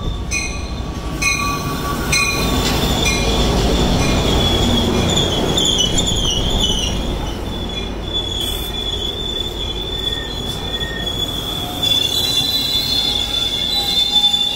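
EMD F59PHI diesel locomotive and Bombardier BiLevel coaches pulling into a station. The locomotive bell rings steadily for the first few seconds while the engine passes with a low rumble. Then a steady high squeal from the wheels and brakes comes in and holds as the train slows to a stop.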